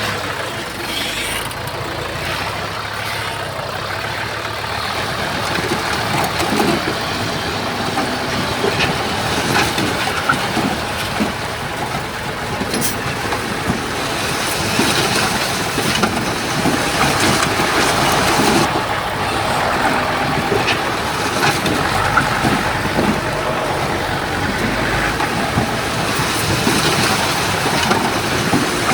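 Heavy diesel earthmoving machinery running steadily, with a few short knocks.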